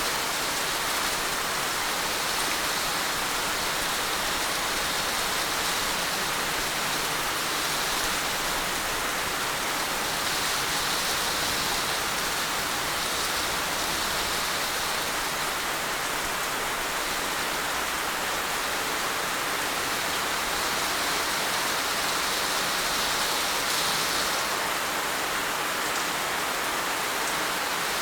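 Heavy rain falling steadily, an even hiss of dense drops with no let-up.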